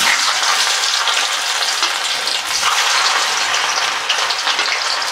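Chunks of boiled potato sizzling steadily in hot cooking oil in a pan.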